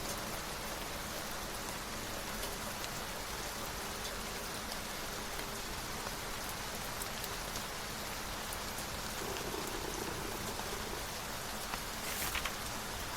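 Steady rain falling on a surface, an even hiss with a book page turning briefly near the end.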